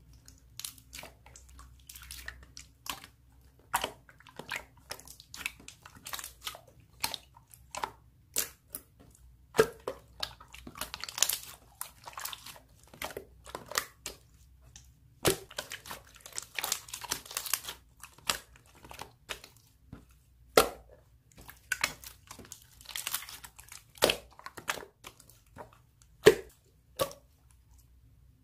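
Slime being handled by hand: squeezed, pressed and poked, giving irregular sharp clicks and crackles, several a second.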